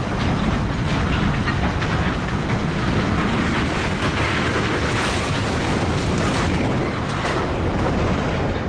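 Railway train moving on the track: a steady, loud rumble with the clatter of wheels on rails.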